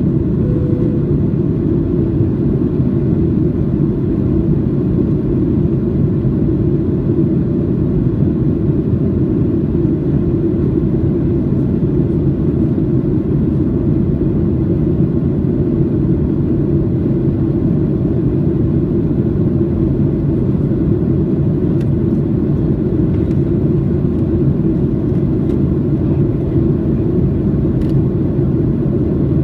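Boeing 737-800 cabin noise in flight: the steady low roar of its CFM56 turbofan engines and the airflow over the fuselage, heard from a passenger window seat.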